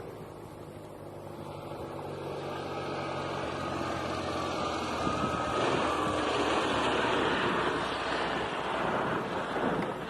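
Float plane coming in to land on water: an engine drone that grows steadily louder over several seconds, turning into a loud rushing noise toward the end as the plane passes close.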